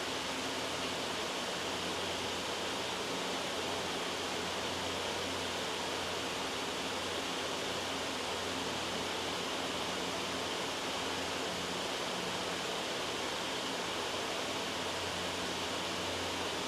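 Steady, loud white noise, an even hiss with no change, over a faint low hum.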